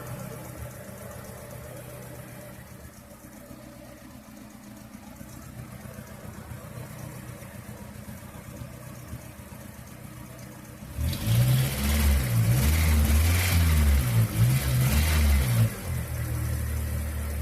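Car engine idling steadily, then revved up and down several times from about eleven seconds in, holding a fast idle before dropping back near the end. The alternator belt, treated with paraffin wax, no longer chirps.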